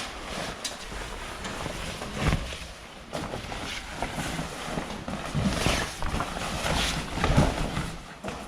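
Wind buffeting the microphone, with rustling and a few bumps as a cover is handled and pulled over outdoor equipment.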